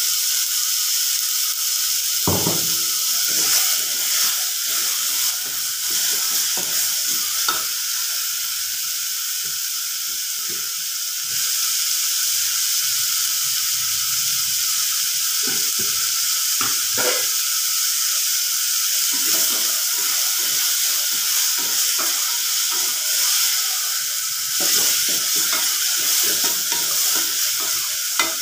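Onion and tomato frying in an aluminium pressure cooker, sizzling steadily, while a wooden spatula stirs and scrapes against the pot with scattered knocks.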